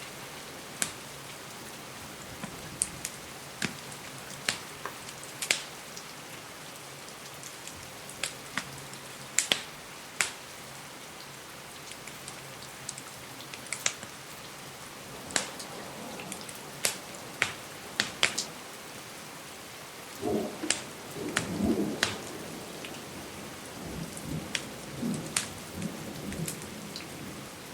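Steady rain hiss mixed with a wood fire crackling: sharp pops scattered throughout, and a denser run of duller, lower crackles about twenty seconds in.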